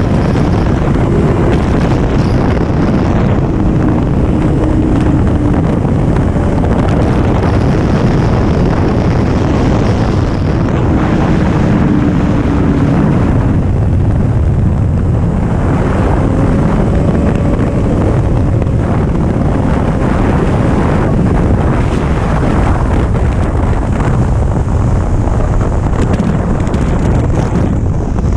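Wind buffeting the microphone of a 2011 Kawasaki ZX-10R at speed, a steady loud rush, with the bike's inline-four engine note underneath, its pitch rising and falling as the rider works the throttle.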